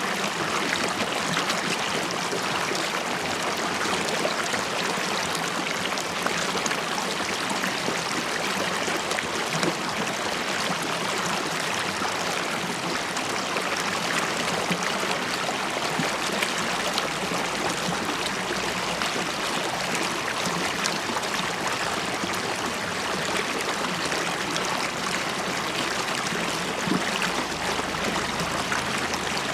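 River water flowing and bubbling: a steady, even rush with small gurgles and splashes.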